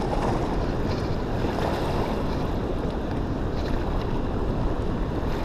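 Steady wind buffeting the microphone: a continuous low rumble with a noisy hiss above it.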